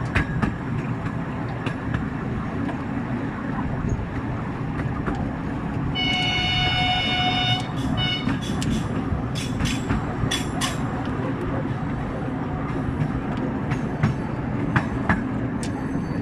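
A narrow-gauge park railway train running along the track, heard from an open passenger car as a steady low rumble. The locomotive sounds one steady horn note for about a second and a half, about six seconds in. Sharp clicks from the wheels on the rails follow, in a cluster and again near the end.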